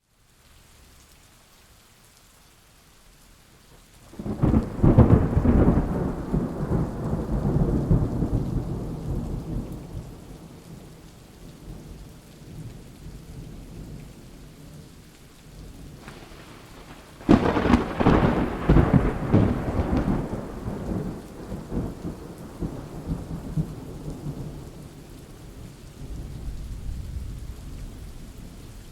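Thunderstorm: steady rain under two loud claps of thunder, the first about four seconds in and the second about seventeen seconds in, each crackling and rumbling away over several seconds.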